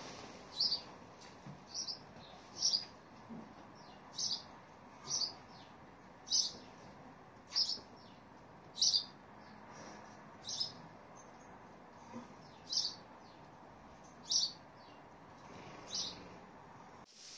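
A small bird chirping: single short, high chirps repeated about once a second.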